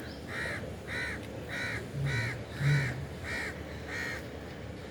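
A bird calling seven times in an even series, about one call every 0.6 seconds, then stopping near the end. A short low sound comes just before the middle and is briefly the loudest thing.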